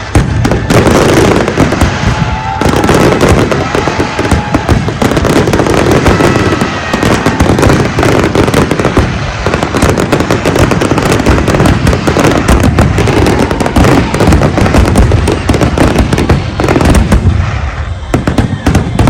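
Large fireworks display: a dense, continuous barrage of shell bursts and crackling bangs, overlapping with hardly a pause.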